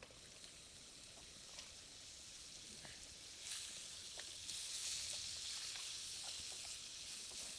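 Pork head meat and garlic sizzling in a frying pan over a small wood fire, with a few faint ticks. The sizzle grows louder about three and a half seconds in, as the pan is stirred with chopsticks and gives off a cloud of steam.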